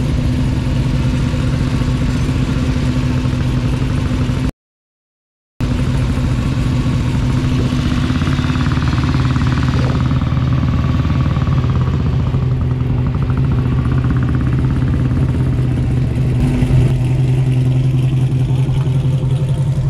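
A car engine idling, a steady low rumble, cut by about a second of silence about four and a half seconds in.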